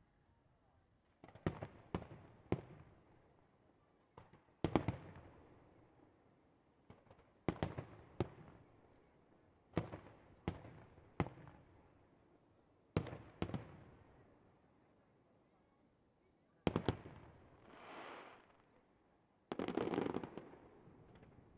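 Aerial firework shells bursting in a display: about a dozen sharp bangs, some in quick pairs or threes, each trailing off in an echo. Near the end there is a swelling hiss, then a longer dense burst of noise.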